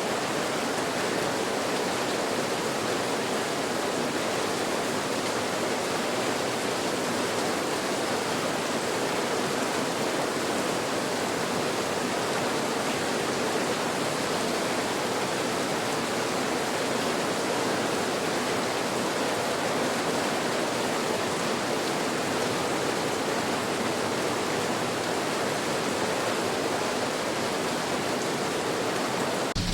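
Steady rain white noise: an even, unbroken hiss with no separate drops standing out and no change in level.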